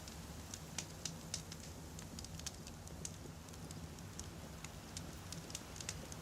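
Wood campfire burning, with a steady low rumble of flame and frequent sharp crackles and pops of the firewood, a few louder pops about a second in.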